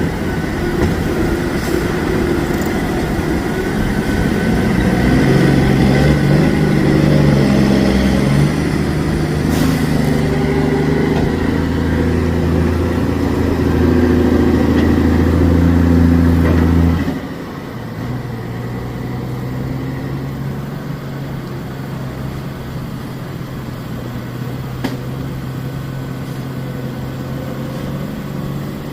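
Heavy diesel engines of dump trucks and loading equipment running under load with a deep, shifting drone. About two-thirds of the way in, the drone drops suddenly to a quieter, steady idle.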